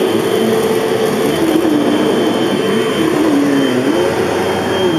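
Hoover Elite Rewind bagless upright vacuum cleaner, 12-amp motor, running on carpet: a loud steady rush of air with a hum that dips and rises in pitch as the head grips and is pushed over the pile.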